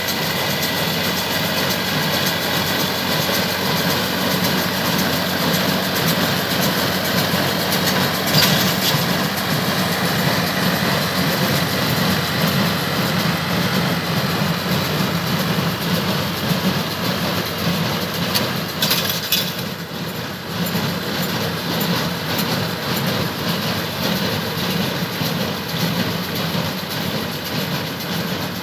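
Massey Smart 9500 tractor engine running steadily under load, driving a Massey Ferguson 1840 square baler whose mechanism clatters with repeated clicks and a few louder clacks.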